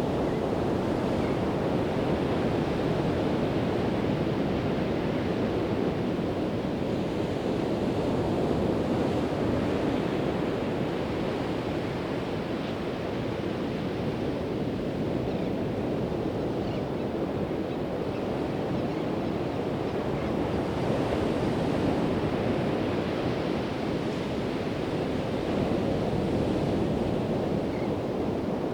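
Pacific Ocean surf washing onto the beach, a steady rush of breaking waves that swells and eases slowly, with some wind on the microphone.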